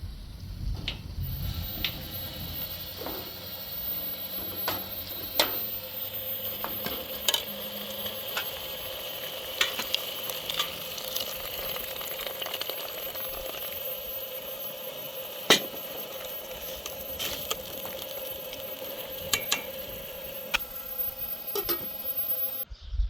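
Food sizzling in a cooking pot while being stirred, with scattered sharp taps and scrapes of a spoon against the pot. The sizzle cuts off abruptly near the end.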